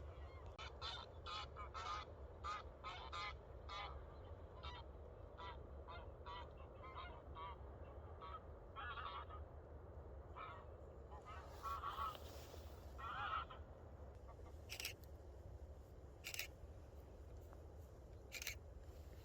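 Geese honking: a rapid run of short calls that thins out after about halfway. A few sharp clicks come in the last few seconds.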